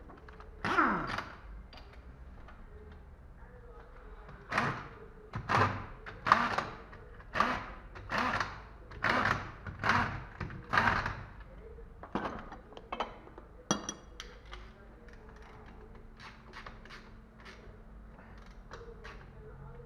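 Tool work on a car's driveshaft and differential: a knock with a falling ring about a second in, then a run of about eight heavy knocks at roughly one a second, followed by lighter clicks and taps.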